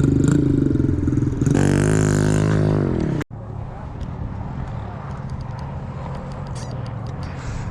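A small petrol pit-bike engine running, its pitch rising and falling about a second and a half in as it is revved; the sound cuts off abruptly a little over three seconds in, leaving a quieter steady rumble with faint ticks.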